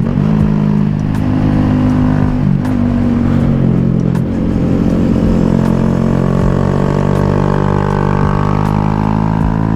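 Honda Grom's single-cylinder engine pulling under way on a winding road, recorded from the bike. The engine pitch steps up and down a few times in the first four seconds, then climbs steadily through the second half.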